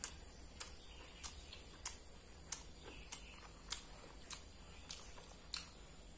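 Chewing of crispy battered fried tofu stuffed with meatball: short, sharp crunches at an even pace, about three every two seconds.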